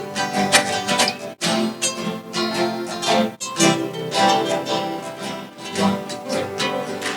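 String orchestra playing a piece with many plucked (pizzicato) notes. The sound cuts out completely for an instant twice, about one and a half and three and a half seconds in.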